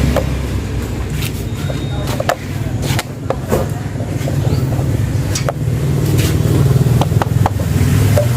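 An engine running steadily with a low drone, while several sharp clicks and knocks of things being handled sound over it.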